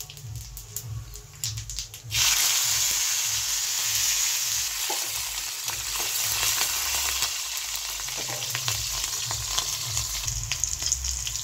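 Chopped green chillies and vegetables go into hot ghee and oil in a kadhai about two seconds in, and the oil breaks into a loud, steady sizzle of frying. Scattered clicks and scrapes of a spatula stirring the pan run through the sizzle.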